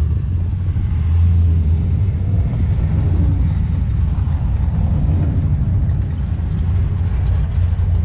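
Cars running an autocross course, heard as a steady low engine rumble.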